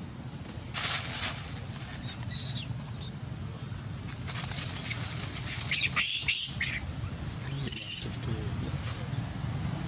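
Baby macaque giving short, shrill squeals and screeches in four or five separate bursts, the longest cluster about two-thirds of the way through: the cries of a frightened infant monkey.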